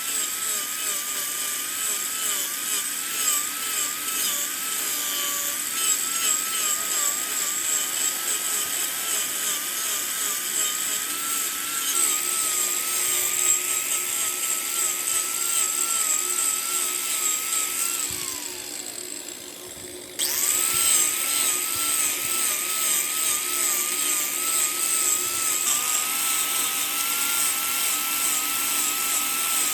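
Wood lathe running with a steady motor whine and the hiss of a turning tool cutting into the spinning wood. About two-thirds of the way through, the whine falls in pitch as the lathe slows, then it comes back abruptly at full speed.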